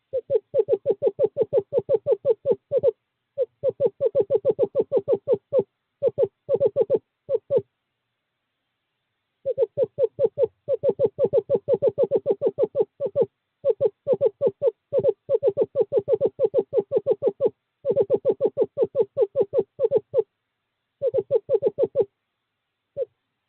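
Male screech owl giving its courting trill: rapid runs of even, same-pitched hoots, about eight a second, each run lasting one to four seconds with short breaks, and a longer pause about a third of the way through.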